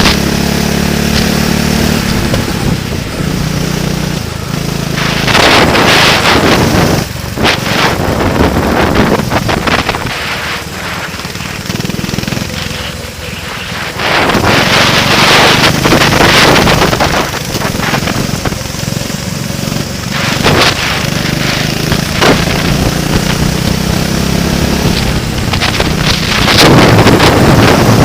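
A vehicle engine running on the move, its note stepping up and down, heavily buffeted by wind blasting on the microphone in repeated loud gusts.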